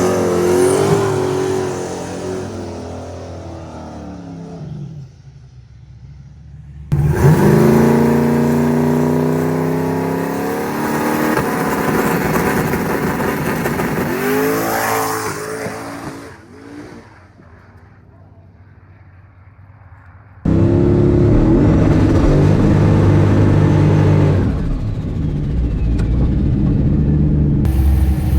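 Drag car's turbocharged V8 running hard down the strip, its pitch climbing, heard in several edited clips that cut in abruptly about a third of the way in and again past the two-thirds mark. The last clip holds a loud, steady engine note.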